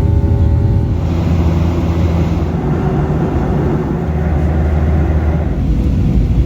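A loud, steady low rumble of a vehicle in motion.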